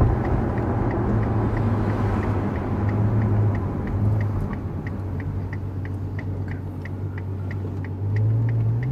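Ferrari GTC4 Lusso's V12 engine running at low revs, heard from inside the cabin, with the turn-signal indicator ticking about three times a second. About eight seconds in, the engine note rises as the car speeds up.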